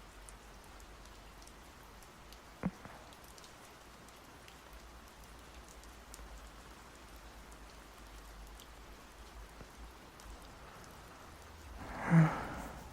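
Steady rain falling, with one sharp tick about two and a half seconds in.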